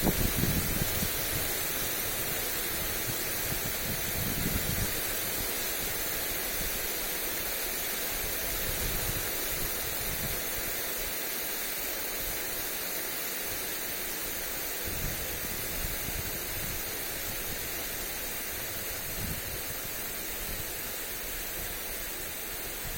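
Lawn sprinkler spraying water onto grass, a steady hiss. Wind buffets the microphone now and then, most strongly in the first second and again around four to five seconds in.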